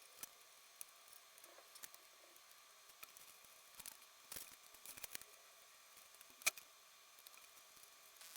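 Faint, scattered clicks and taps of small hard objects being handled, a few bunched together partway through and one sharper click about six and a half seconds in, over a quiet background.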